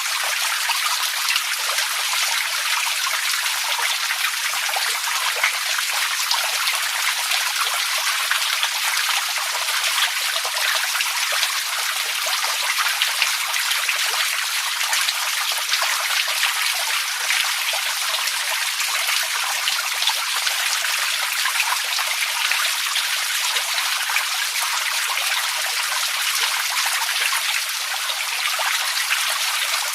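Running water trickling and splashing steadily, with a dense, fine patter of small splashes and no change throughout.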